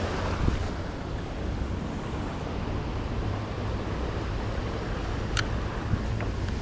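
Steady outdoor noise of wind rumbling on the microphone over flowing river water, with one sharp click about five seconds in.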